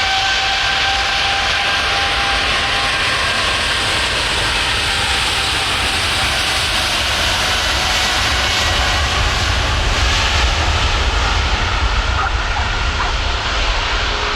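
Airbus A350's Rolls-Royce Trent XWB jet engines running close by: a steady whine over a broad rushing noise and a low rumble, which grows louder in the second half.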